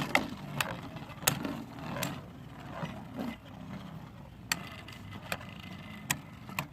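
Beyblade spinning tops turning in a plastic stadium: a low steady spinning hum with a series of sharp plastic clicks and knocks, and a faint high whine from about halfway through.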